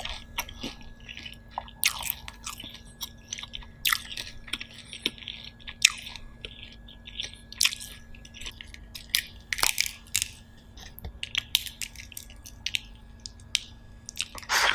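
Close-miked chewing of steamed shellfish meat: irregular soft crunches, clicks and mouth sounds. Near the end a louder crackle as a shell is pulled apart by hand.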